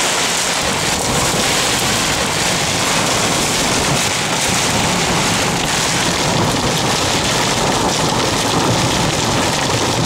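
Heavy wind-driven rain beating on the windshield and body of a vehicle, heard from inside the cabin, loud and steady. The rain is driven by 80–100 mph gusts.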